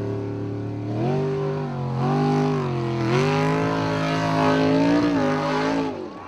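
Formula Offroad buggy's engine at high revs under full load climbing a steep dirt slope, its pitch stepping up several times as the throttle opens, then cutting off abruptly near the end.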